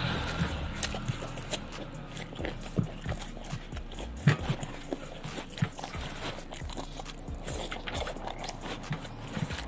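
Close-miked eating sounds: chewing with irregular wet mouth clicks and crunches, and fingers picking rice and cucumber off a metal tray, with one sharp click about four seconds in the loudest.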